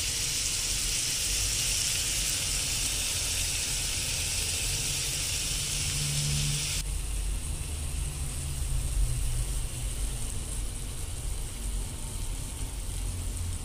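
Diced onion and bacon sizzling in a frying pan, a steady hiss. About seven seconds in it drops abruptly to a quieter sizzle, with tomato now in the pan.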